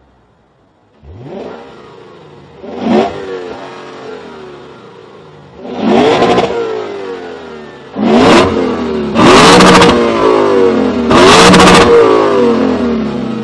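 Lexus RC F 5.0-litre V8 with an aftermarket exhaust being revved in a series of sharp blips, dropping back toward idle between them. The engine note comes up about a second in, and the later revs are louder and held longer.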